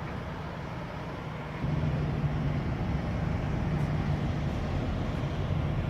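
Steady low engine drone of idling vehicles, growing louder a little under two seconds in and dropping off sharply at the end.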